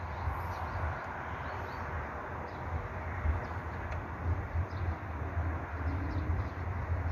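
Small birds chirping in short, repeated high notes over a steady low outdoor rumble.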